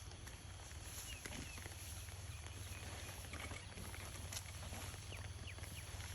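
Faint outdoor ambience: a steady low rumble with scattered light crackles, rustles and a few short high chirps.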